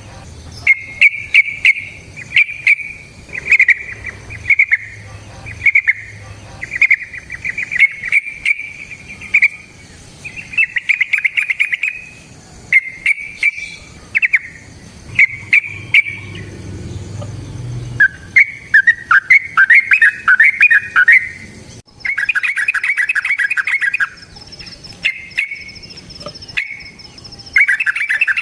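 Yellow-vented bulbul (trucukan) singing its bubbly warbling song in short repeated phrases, with many sharp clicks between them.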